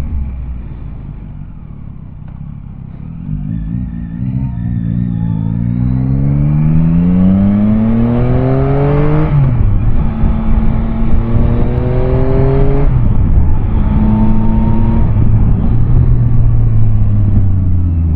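Yamaha Tracer 9's three-cylinder engine pulling hard, rising in pitch and then dropping sharply at an upshift, twice, before settling at a steady speed. A low rumble of wind and road noise runs underneath.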